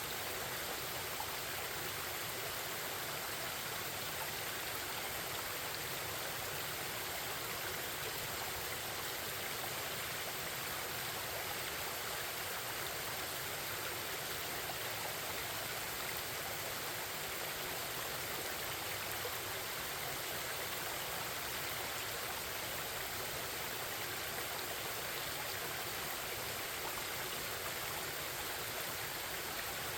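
Forest stream babbling: a steady, even rush of flowing water.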